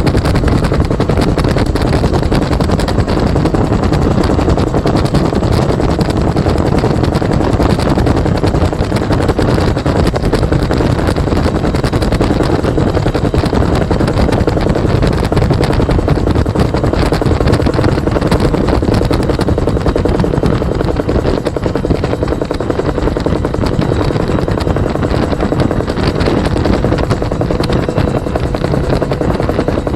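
Two-blade Bell UH-1 Huey helicopter in flight, heard from the gunner's seat: its turbine engine and main rotor make a loud, steady, unbroken roar, with a faint steady tone running through it.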